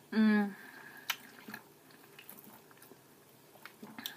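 A brief voiced sound from the eater just after the start, then soft chewing and mouth sounds with a few light clicks as she eats tamale.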